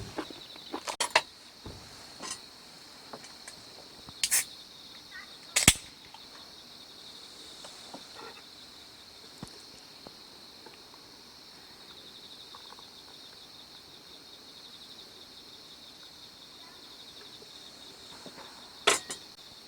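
Insects chirping steadily in a high, even trill, with a few sharp knocks about a second in, around four and six seconds, and near the end.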